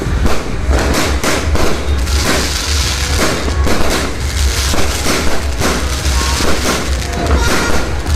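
Dense, continuous barrage of fireworks and firecrackers going off, with many rapid overlapping bangs and crackling.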